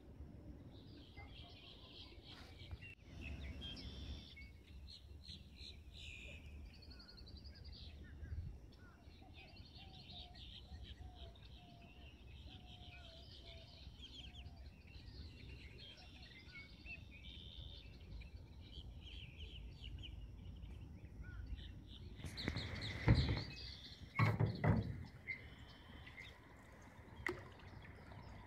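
Birds chirping and singing over a faint steady background hum of open air. Near the end there are a few loud knocks and thuds.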